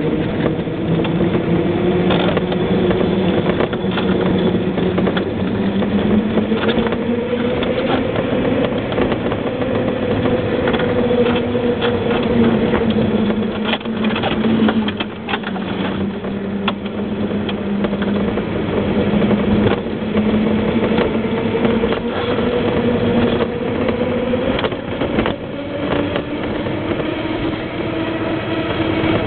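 Steady running noise of a vehicle on a downhill road run: a continuous hum whose pitch drifts slowly up and down, with frequent knocks and rattles over the road surface.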